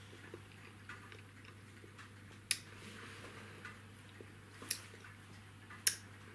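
Quiet chewing of a soft, chewy mochi, with three sharp wet mouth clicks spaced a second or two apart over a faint low hum.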